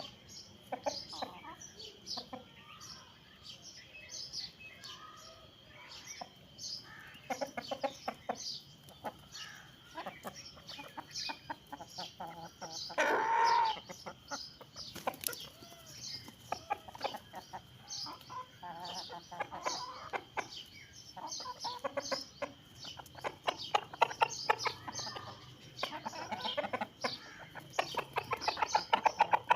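Chickens clucking, with many short high chirps throughout and one louder call of about a second near the middle.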